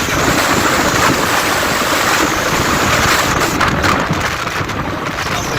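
Wind rushing over the microphone while riding along a road, a loud steady rush with traffic noise under it.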